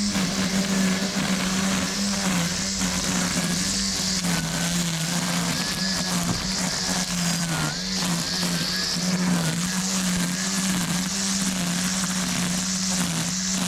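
Electric string trimmer, its motor in the head, running steadily with a hum whose pitch dips slightly and recovers again and again as the line cuts through weeds and dirt.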